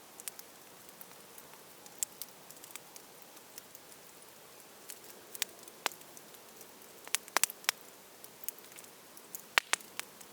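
Wood fire crackling: sharp, irregular pops and snaps over a low steady hiss, with a quick cluster of louder pops about seven seconds in.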